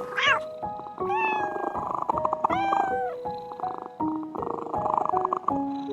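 Cat meowing three times, short calls that bend in pitch, over background music.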